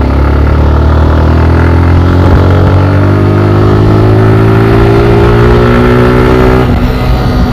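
Motorcycle engine under way, accelerating with its pitch rising steadily, then dropping sharply near the end as the throttle eases or the next gear is taken.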